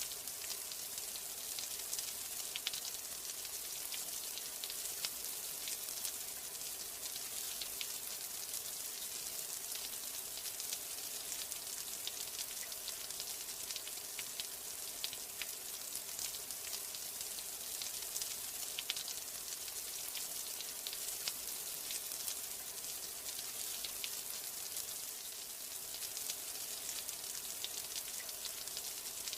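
Steady rain, a dense even hiss with many individual drops ticking sharply through it.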